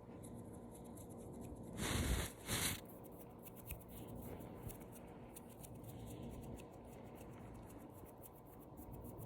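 Hands moving and rubbing close to the microphone, with two louder brushing swishes about two seconds in and faint soft clicks scattered throughout.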